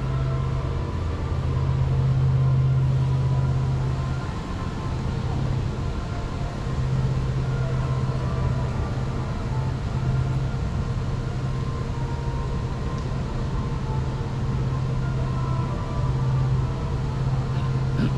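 Helicopter engine and rotor running as a steady low drone that swells and eases over several seconds: a gunship started up and taking off.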